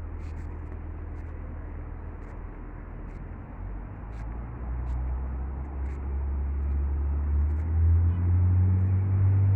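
A motor vehicle's engine running as a low, steady hum that grows louder from about four seconds in, as if the vehicle is drawing closer.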